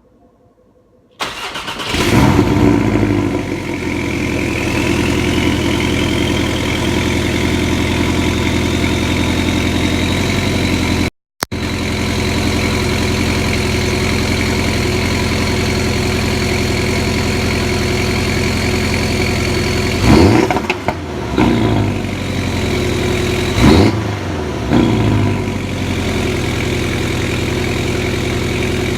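Porsche 718 Cayman GTS cold start: the engine fires about a second in with a loud flare, then settles to a steady, fast cold idle with a whine that climbs in pitch over the first few seconds and then holds. Late on, two quick throttle blips about three seconds apart, each rising and dropping back to idle.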